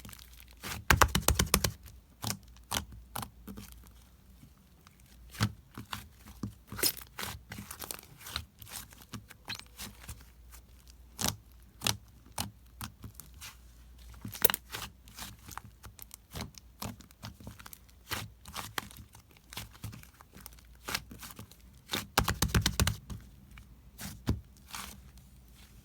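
Slime being kneaded, stretched and squeezed by hand: irregular sharp crackling clicks and pops, with two denser bursts of crackling, about a second in and near the end.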